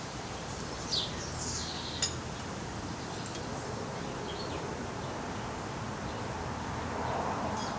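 Wild birds chirping: a couple of quick high chirps sweeping down in pitch about a second in, then scattered faint calls, over a steady outdoor hiss.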